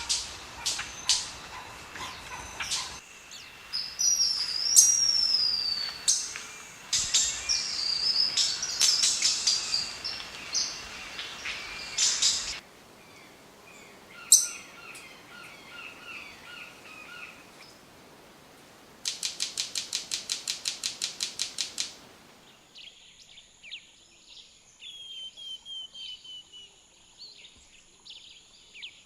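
Calls and songs of several different wild birds in succession, each recording cut off abruptly as the next begins, with whistled notes, chirps and gliding phrases. About two-thirds of the way through, one bird gives a fast, even series of about a dozen sharp notes lasting a few seconds.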